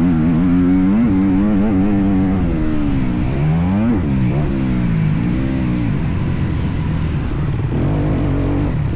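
Motocross bike engine revving up and down under riding, its pitch rising and falling repeatedly with throttle and gear changes, then running steadier and lower after about six seconds.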